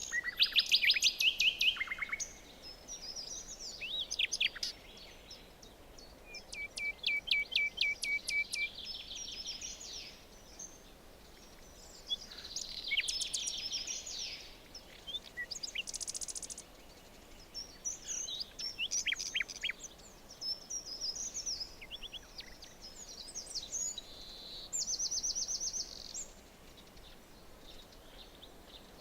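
Several songbirds singing in a forest, one phrase after another: quick runs of high chirping notes and short trills, with brief pauses between phrases, over a faint steady hiss of background ambience.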